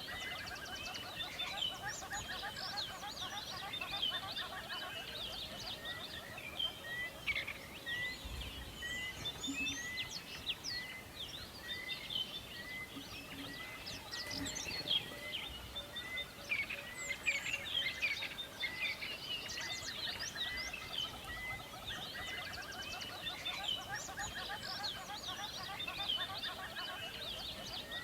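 A chorus of many songbirds chirping and singing, with one bird repeating a short rising note every second or so through the first half.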